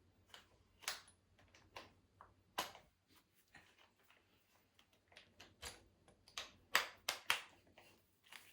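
Scattered light clicks and taps of tools and small hardware being handled, with a quick run of sharper clicks about seven seconds in.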